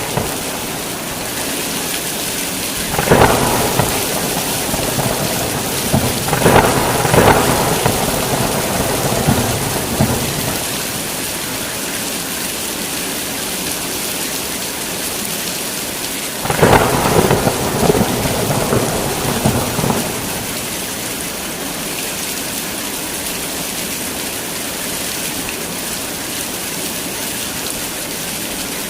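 Heavy rain pouring steadily, with thunder: a sharp crack a few seconds in that runs into several seconds of rolling peals, then another crash with rumbling past the middle.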